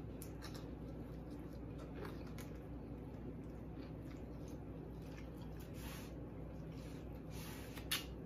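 Quiet mouth sounds of someone chewing garlic bread and baked ziti, with scattered faint smacks and clicks over a steady low hum. A sharper click comes near the end.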